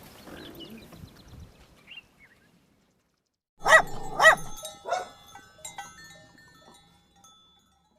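An animal calling: two loud, short calls that rise and fall in pitch, in quick succession, then a softer third.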